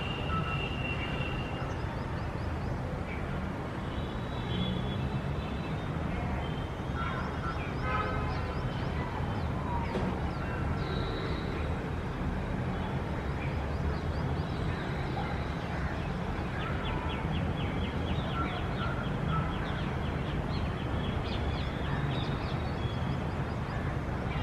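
A steady low hum of city traffic with birds chirping and calling over it. A fast run of repeated chirps comes about two-thirds of the way through.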